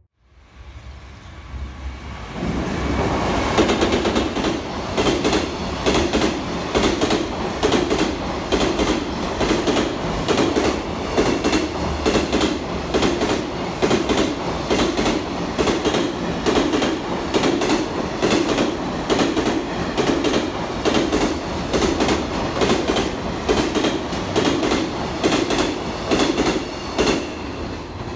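Long container freight train passing on the near track, its wheels clattering over the rail joints in a fast, even clickety-clack. The sound builds over the first couple of seconds and eases off near the end as the last wagons go by.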